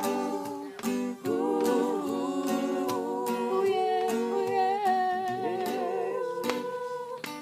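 Singing of a worship song at a campfire, held notes that slide between pitches, with a guitar strummed in even strokes underneath.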